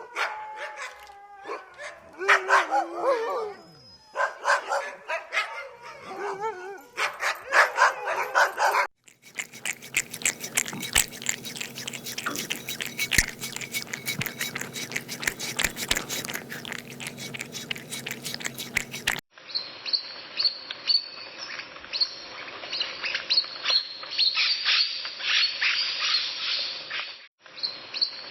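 A run of separate short animal recordings, one after another, with a dog's sounds among them. The middle stretch is a long run of dense clicking.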